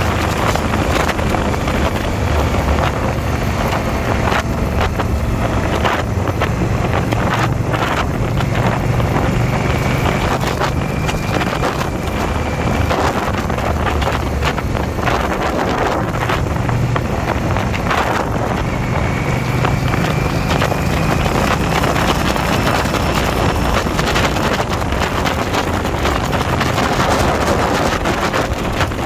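Motorcycle engine running steadily at road speed, with heavy wind buffeting on the microphone.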